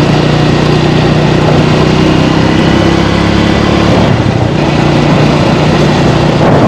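Small motorbike engine running at a steady speed while riding, with wind and road noise on the microphone; the engine note holds even for about four seconds and then becomes less steady.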